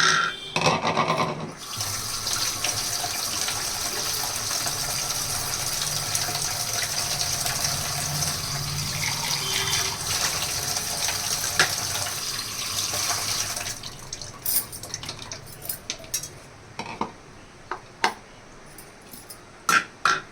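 Kitchen tap running into a sink in a steady stream for about twelve seconds, then shut off. A few clatters come just before it, and scattered clinks and knocks of kitchenware follow.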